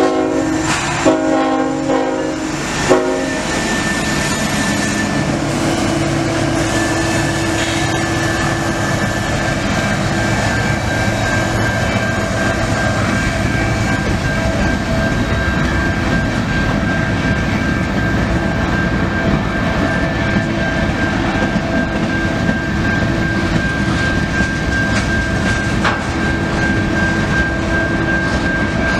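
Train horn sounding near the start: the end of one blast, then a long blast and a short one. Then the steady rumble and clatter of a train rolling past, with a thin, steady high-pitched tone over it.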